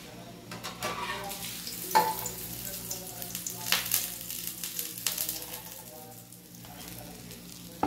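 Minced-meat burger patty frying in oil in a pan, with a steady sizzle. A spatula clicks and scrapes against the pan several times as the patty is lifted out, loudest about 2 s in and around 4 s.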